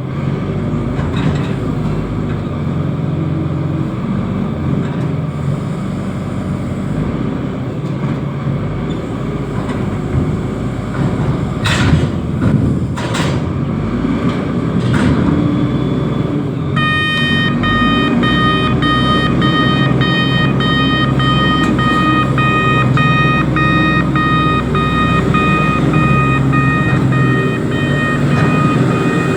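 Heavy diesel engine of a reachstacker running steadily, with a couple of metallic knocks near the middle. From a bit past halfway a warning beeper starts sounding over it, beeping repeatedly to the end.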